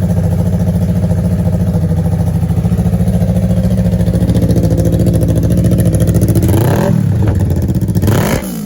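2020 Yamaha R3's parallel-twin engine idling steadily through an aftermarket M4 Street Slayer exhaust, then blipped twice near the end, the pitch rising and falling each time.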